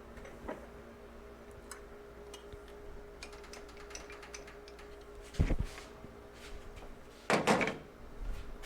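Small metal ticks and clicks of hand tools being worked at a steel bench, then two louder clunks as metal tools are handled and set down. A steady electrical hum runs underneath.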